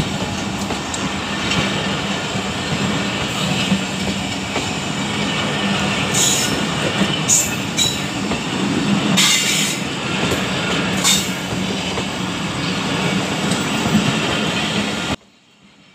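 Passenger coaches of a departing express train rolling past at close range: a steady rumble of wheels on rail, with a few brief high screeches from the wheels. The sound cuts off abruptly near the end.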